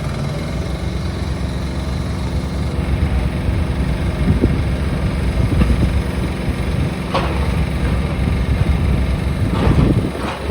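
Heavy machinery engine running steadily, with a few sharp knocks and cracks over it, the loudest cluster near the end.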